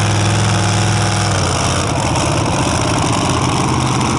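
Loud engine of a pulling tractor running, its steady note changing about a second and a half in.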